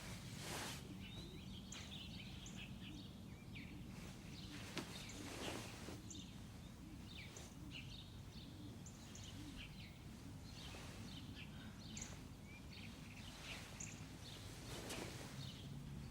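Faint outdoor ambience: a steady low hum with scattered short bird chirps throughout.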